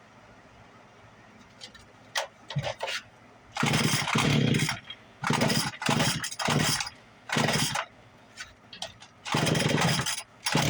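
Small two-stroke engine being pull-started cold: a few clicks, then five loud bursts about a second apart as the engine fires and sputters briefly on each pull, its pitch dropping away each time without it catching and running.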